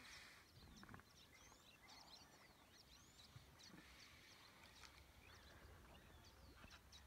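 Faint birdsong: many short chirps and whistles in quick succession over a low background rumble.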